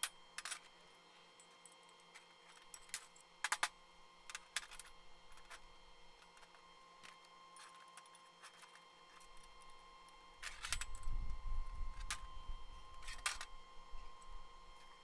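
Scattered light metal clinks and clanks of thin-wall square steel tubing, bolts and brackets being handled and set down on a steel welding table, with a low rumble about ten seconds in.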